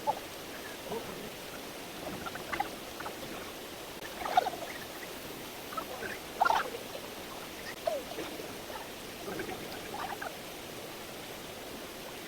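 Steady rushing of a valley stream, with short faint calls scattered over it every second or two.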